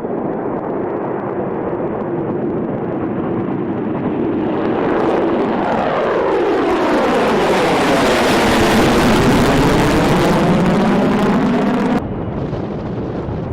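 Tupolev Tu-160 bomber's four NK-32 afterburning turbofan engines at takeoff power, with dense jet noise growing louder as the aircraft passes close. A sweeping whoosh shifts the tone down and then back up as it goes by. The sound cuts off abruptly near the end.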